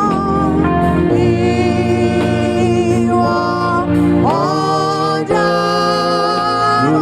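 Gospel music: a choir singing long, held notes over a steady keyboard accompaniment.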